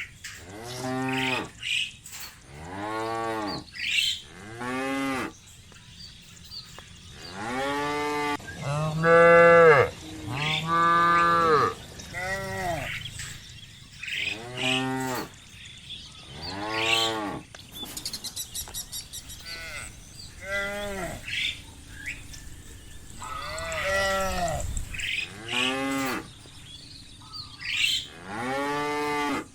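Cows mooing over and over, many calls of under a second each, rising and then falling in pitch. Some calls are higher-pitched than others, so several animals are calling.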